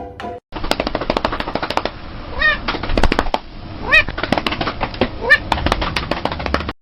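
A cat meows three times, short rising-and-falling calls spaced over a few seconds, over a dense crackling, clicking noise.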